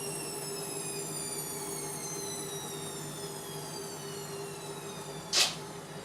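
Indesit washing machine's drum motor whining and slowly falling in pitch as it winds down, over a steady hum. A single short, sharp click about five seconds in.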